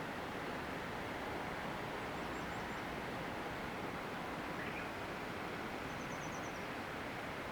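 Steady wind noise blowing across the countryside, an even rushing hiss. Twice, about two seconds in and again about six seconds in, a faint short run of high chirps rises above it.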